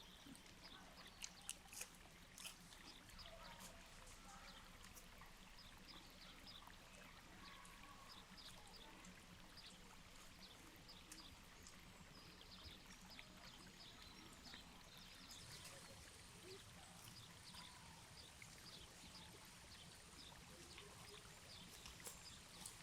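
Near silence: faint outdoor ambience with scattered soft ticks, a few slightly louder ones in the first seconds.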